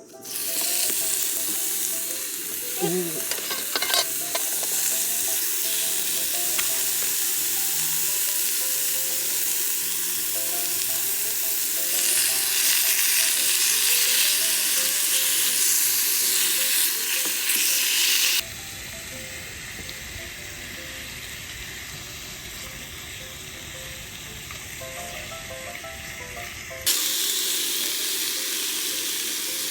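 Food sizzling and frying in a hot pan: a steady, dense sizzle. It drops quieter with a lower rumble for several seconds about two-thirds of the way through, then comes back.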